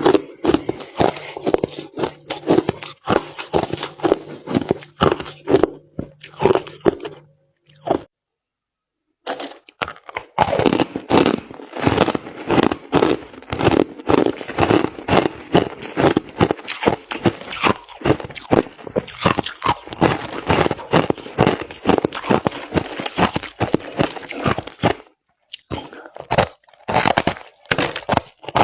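Someone chewing white crushed ice close to the microphone: fast, continuous crunching and cracking. It breaks off for about a second of dead silence around eight seconds in, then resumes. A faint steady hum runs underneath until the break.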